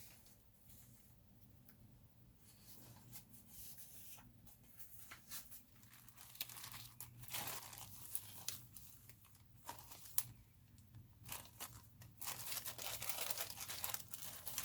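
Paper being handled and torn: rustling, crinkling and tearing with scattered light taps, sparse at first and busier in the last few seconds.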